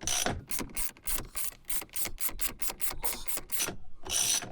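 Ratchet wrench with a 24mm socket clicking in quick, even strokes, about four or five a second, as it runs a nut off; a longer, louder burst of clicking comes near the end.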